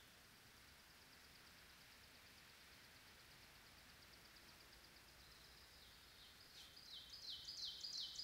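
A songbird singing a run of about five repeated, sweeping high notes that grow louder toward the end, over a faint, steady high trill.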